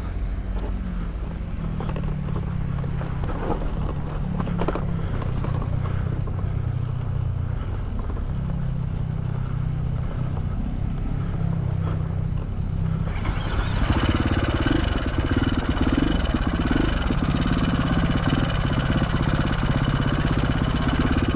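KTM 450 SX-F dirt bike's single-cylinder four-stroke engine running at low revs on a trail, with a few knocks in the first few seconds. About two-thirds of the way through it gets louder and harsher as it is revved harder.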